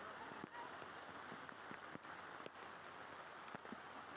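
Faint, steady noise of rain or flowing floodwater, with scattered sharp ticks.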